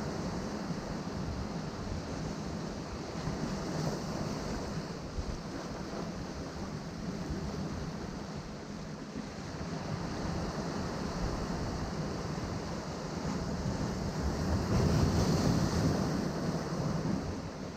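Ocean surf washing continuously against a rocky shore, with one bigger wave surging louder near the end.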